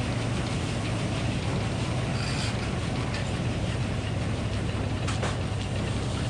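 Minneapolis Moline HEB 605-cubic-inch engine running steadily while it powers a Frick circular sawmill. There is a low, even drone with a couple of faint clicks partway through.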